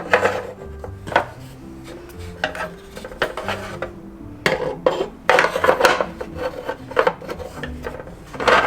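Small plastic toy furniture pieces clicking, knocking and rubbing as they are handled and set down, with a cluster of clicks about halfway through, over quiet background music.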